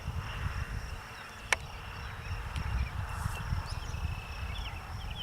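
Outdoor ambience of insects droning steadily at a high pitch, with short bird chirps here and there and a low rumble underneath; one sharp click about a second and a half in.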